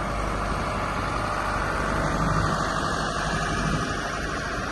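Kobelco SK210LC-10 hydraulic excavator's diesel engine running at a steady idle.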